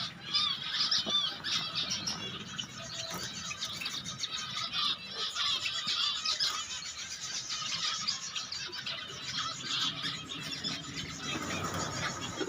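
Zebra finches calling: a busy, continuous stream of short, high chirps and beeps.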